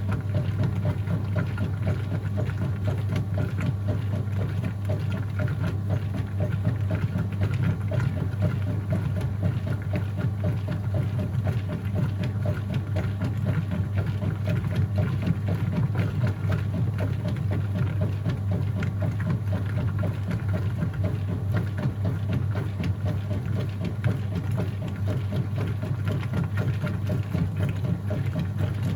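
Whirlpool top-load washing machine running mid-cycle: a steady low motor hum with water churning and sloshing in the tub.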